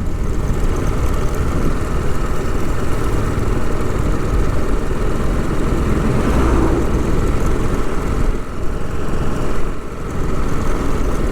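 TVS Apache RR 310 motorcycle on the move, its single-cylinder engine running steadily at low road speed.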